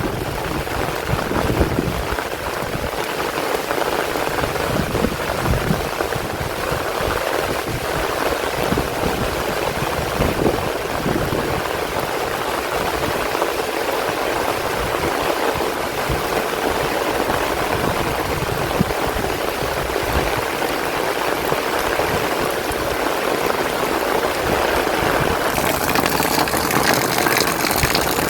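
Heavy rain falling steadily, with gusts of wind buffeting the microphone now and then.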